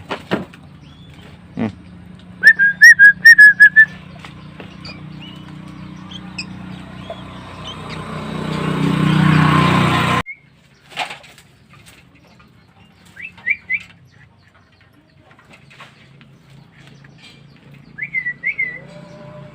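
Short, high whistled chirps, each sliding up and then holding, in a quick run of about six and later in small groups of two or three. Between them a rushing noise swells for a few seconds and then stops abruptly.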